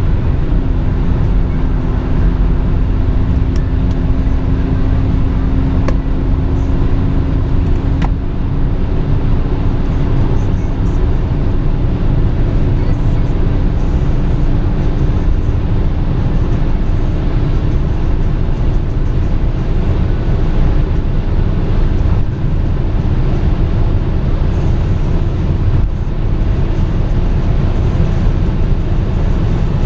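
Opel Omega B 2.5 DTI's common-rail straight-six turbodiesel pulling hard at high Autobahn speed, heard from inside the cabin under loud wind and road noise. The engine note drops suddenly about half a second in, as the five-speed automatic shifts up, then climbs slowly and steadily as the car gains speed.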